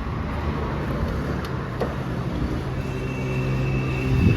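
Road traffic passing: a vehicle engine running, growing louder near the end, with a steady high-pitched tone joining about three seconds in.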